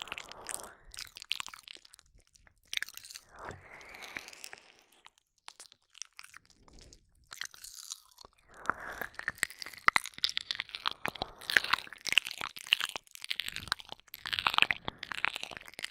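Close-up ASMR mouth sounds of ear licking: wet licks, smacks and tongue clicks in irregular bursts. There is a lull of a couple of seconds near the middle, and the clicks come thicker in the second half.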